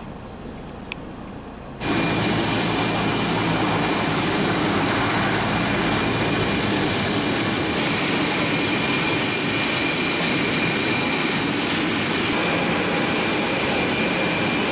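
Jet aircraft engine running at a steady pitch, a loud even rush with a high whine over it, which cuts in abruptly about two seconds in.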